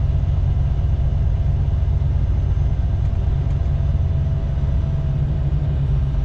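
International LT semi truck's diesel engine running at a steady idle, a deep even rumble with a faint steady hum above it.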